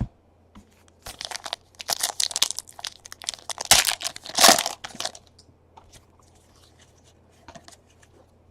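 A foil trading-card pack wrapper being torn open and crinkled, a run of crackling tears for about four seconds, then a few faint taps.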